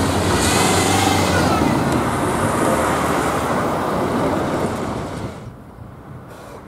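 Train running over the level crossing, a steady rush of wheels on rail that drops away sharply about five seconds in as it clears the crossing.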